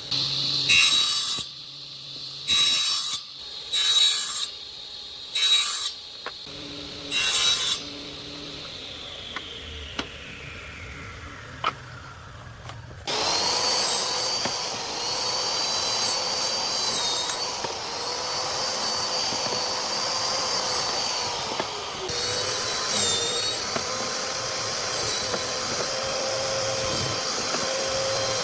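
Woodworking power tool cutting wood in a series of short bursts about a second apart, then its motor winding down with a falling whine. About halfway through, a motor starts and runs steadily with a high, constant whine.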